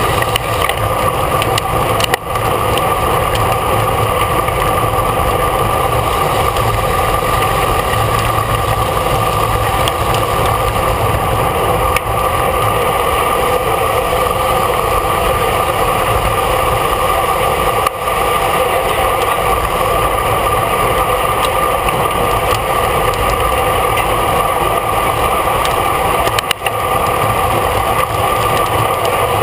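Steady wind and road noise buffeting the microphone of a camera mounted on a racing bicycle at speed. The level dips briefly a few times.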